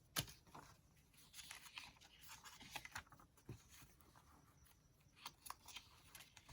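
Faint handling of paper pages and paper clips: soft rustling and light clicks, with a sharp tap about a quarter second in and a duller thump about halfway through.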